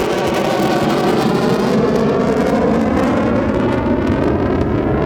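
Jet aircraft flying past, a loud steady roar whose tones slowly sweep and waver as the jets pass.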